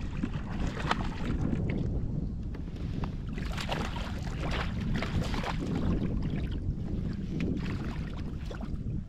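Water splashing and lapping around a kayak, with wind rumbling on the microphone.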